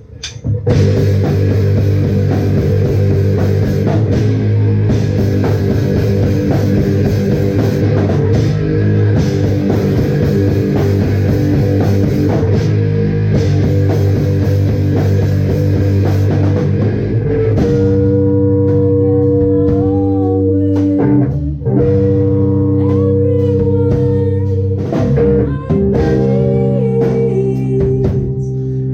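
Live rock band playing: guitar and drum kit, coming in loud about half a second in. A little past the middle the cymbal hiss drops back and held guitar chords ring on.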